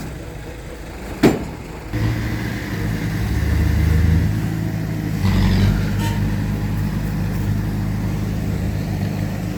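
Heavy construction machine's diesel engine running steadily, picking up from about two seconds in and pulling harder for a moment around the middle. A single sharp metallic clank comes just over a second in.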